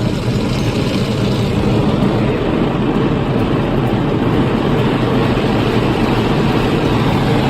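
Automatic car wash machinery passing over the car, heard from inside the cabin: a loud, steady rush of water and machine noise on the bodywork.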